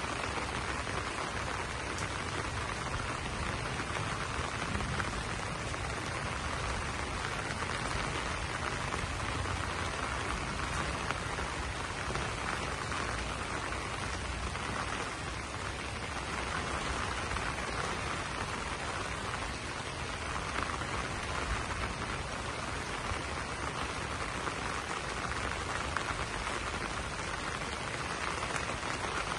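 Steady rain falling on banana leaves, an even hiss of many drops with no change in strength.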